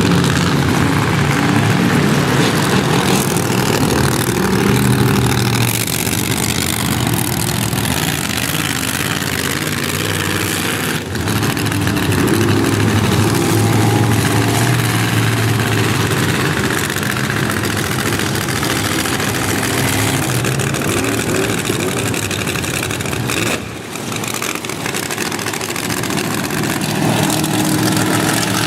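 Monster truck engine running loudly, its pitch rising and falling as the throttle is worked, with a brief drop in level near the end.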